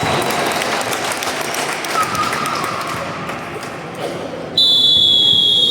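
Gym din of a basketball game, then about four and a half seconds in a loud, steady high-pitched buzzer sounds and holds, typical of the horn ending a quarter.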